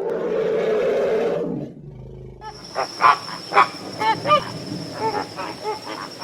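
Animal calls: a harsh, drawn-out call lasting nearly two seconds, then a quick string of short, pitched calls about two to three a second, with a steady high whine behind them.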